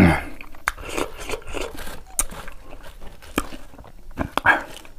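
Close-up mouth sounds of chewing crunchy raw green mango: scattered crunches, clicks and lip smacks, with a mango slice handled and picked up from the leaf near the end.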